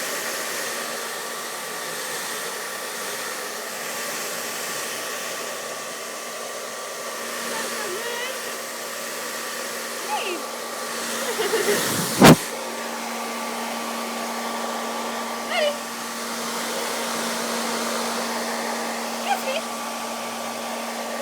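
Hand-held hair dryer running steadily with a continuous blowing rush and a humming motor tone. A single sharp knock about twelve seconds in is the loudest moment.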